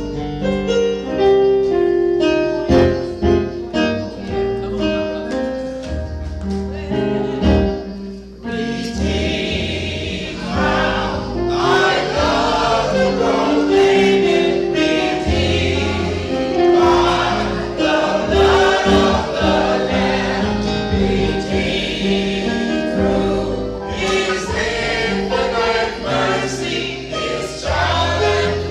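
Gospel music: an instrumental passage with clearly struck notes, then a choir comes in singing about eight seconds in and carries on over the accompaniment.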